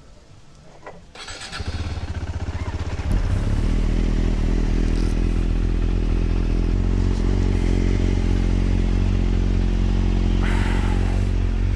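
Motorcycle engine coming in about a second in, getting louder around three seconds in, then running steadily.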